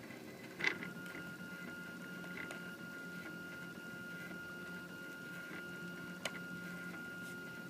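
Prusa i3 3D printer at work at the start of a print: a sharp click less than a second in, then a steady high whine from its stepper motors over a low hum, with another click near the end.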